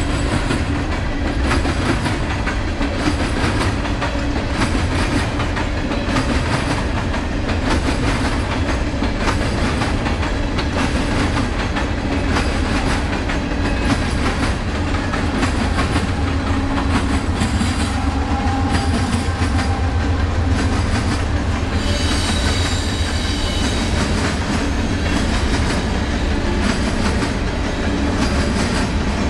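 A train rolling past close by, its wheels clicking steadily over the rails. About two-thirds of the way through, a high wheel squeal rises briefly over the clatter.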